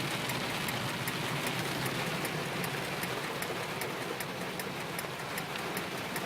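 Heavy rain beating on a moving car, heard from inside the cabin, with a steady low rumble of the vehicle underneath. A run of short, sharp ticks comes several times a second through the rain.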